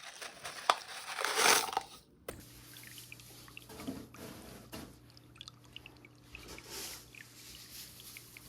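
Small porous pumice stones poured and shifted in a glass aquarium: a crunchy rattle for about two seconds, then scattered light clicks as stones are moved and placed, over a faint steady hum.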